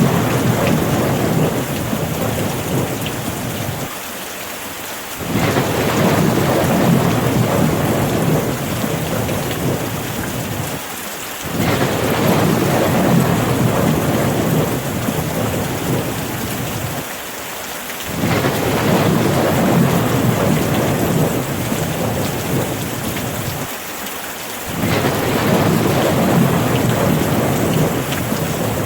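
Steady heavy rain with low rolling rumbles of thunder. The rumble swells in about every six and a half seconds, four times, in an even repeating pattern.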